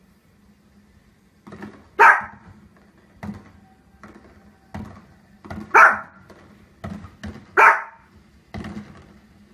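Small dog barking: three loud single barks, about two, six and seven and a half seconds in, with fainter short sounds between them.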